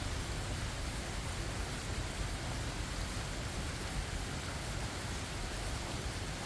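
Steady rain and falling water, an even hiss without distinct drops or thunder claps.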